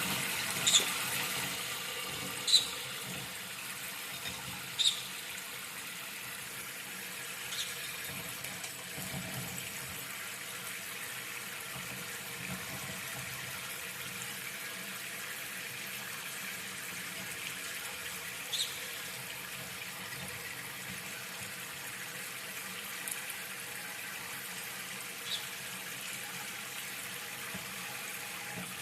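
Steady running water from a tap or shower, as an Indian ringneck and a green-cheeked conure bathe under it. Short, sharp parrot squawks break in now and then, most often and loudest in the first five seconds.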